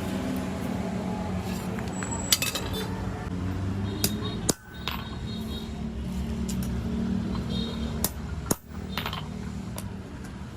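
A few sharp metal clinks and taps of tools on metal parts, over a steady low mechanical hum.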